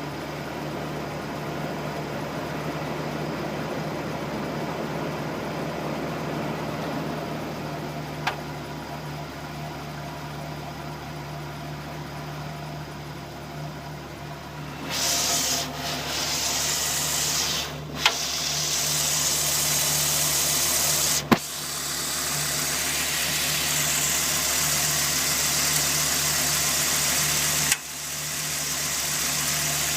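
Dodge Ram SRT-10's 8.3-litre V10 idling steadily. About halfway through, a loud rushing hiss joins in and cuts out briefly a few times, each break marked by a sharp click. There are also a couple of single clicks earlier on.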